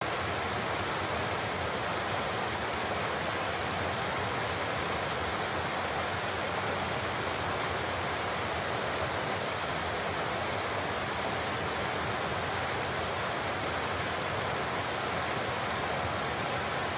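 Large waterfall pouring: a steady, unbroken rush of falling water.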